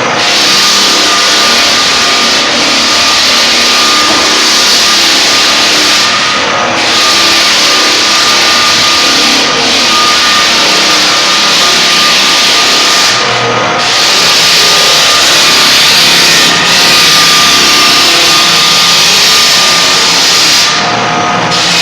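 Floor sanding machines running loud and steady on a hardwood floor: a loud hiss with a steady high motor whine, dipping briefly every few seconds.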